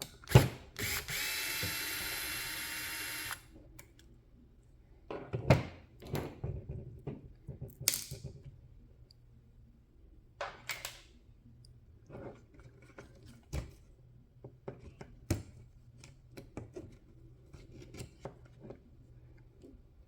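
A small power driver spins a screw out for about two and a half seconds with a steady motor whine, then stops suddenly. Scattered clicks and knocks of small screws, parts and tools being handled follow.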